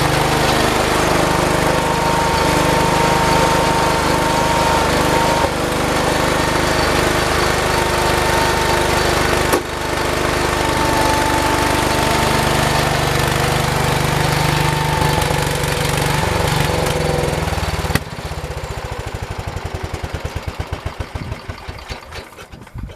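Garden tractor gasoline engine running steadily under load. About 18 s in it suddenly loses power and sputters, the firing slowing and fading until it dies near the end, which the owner puts down to having forgotten to check the gas.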